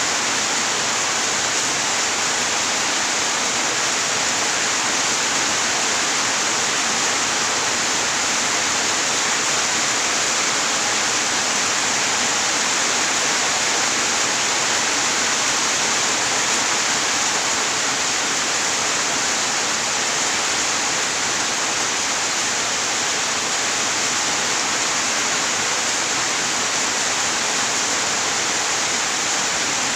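Steady rain, an even unbroken hiss with no distinct drops or thunder standing out.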